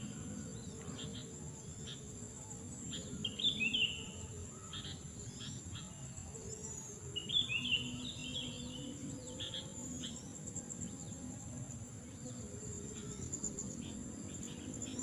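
Outdoor countryside ambience: insects trill steadily on high tones, and a bird gives short chirping calls twice, about three seconds in and again around seven to eight seconds in.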